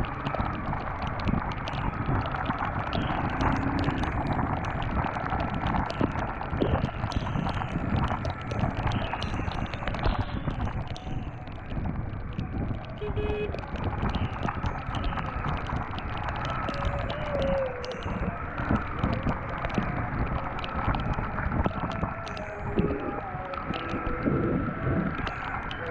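Honda CBR250R single-cylinder motorcycle riding at speed, its engine running under heavy, choppy wind buffeting on the action camera's microphone, on a wet road in the rain.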